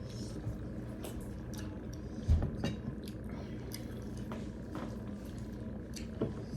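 Close-up wet eating sounds of a meal of rice and dal: squishy chewing and mouth clicks, with a loud low thump a little over two seconds in and a smaller one near the end.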